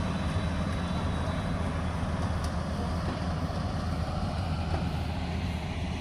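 Rice combine harvester's engine running steadily at constant speed, a low even drone.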